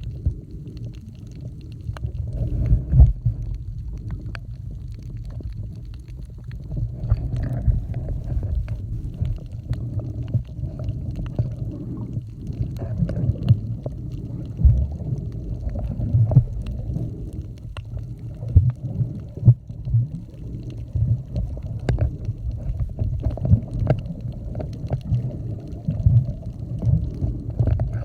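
Underwater sound picked up by a camera held below the surface while snorkeling: a muffled, uneven low rumbling of moving water with scattered clicks and pops.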